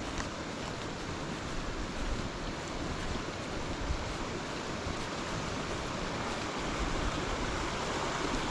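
Steady rushing of a burn's flowing water, growing slightly louder towards the end, with low wind buffeting on the microphone.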